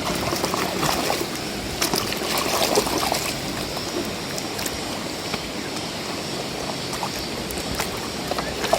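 Water running and splashing as a muddy plastic toy car is rinsed and scrubbed by hand, with scattered small clacks and knocks of the plastic.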